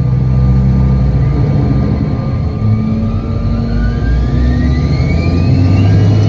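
CRJ-900's rear-mounted GE CF34 turbofan engines heard from inside the cabin: a loud, steady low drone, with a whine that rises in pitch over the last three seconds as the engines spool up.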